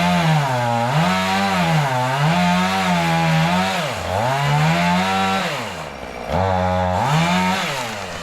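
Gasoline chainsaw cutting a back cut through a tree stem, the engine rising and dipping about once a second as the chain loads in the wood. It drops briefly about six seconds in, then revs up again and eases off near the end.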